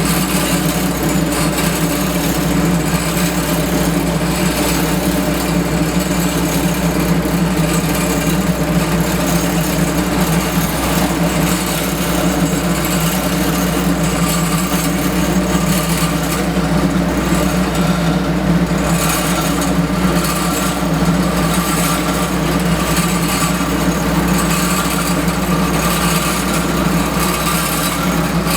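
Diesel engines of asphalt paving machines running at a steady speed, an unchanging engine drone.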